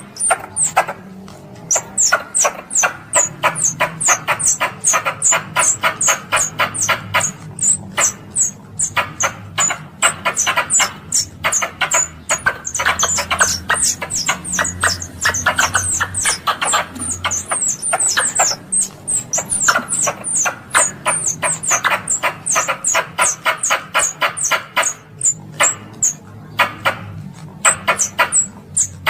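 A squirrel calling: a long, rapid series of sharp, squeaky chirps, several a second, each with a high falling note, broken by a few short pauses. This is the calling sound said to draw other squirrels to it.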